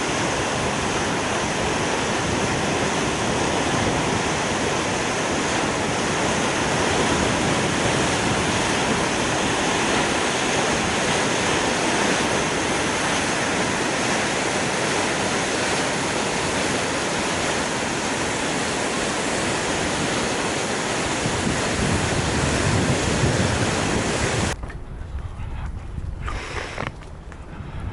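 Waterfall in heavy flow after very heavy rains: a loud, steady rush of water. Near the end it cuts off abruptly, leaving a much quieter low rumble.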